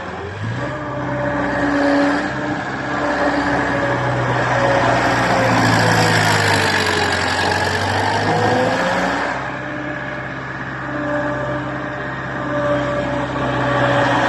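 Xinchai diesel engine of a JC45 mini wheel loader running under varying throttle, its pitch dipping and coming back up around the middle.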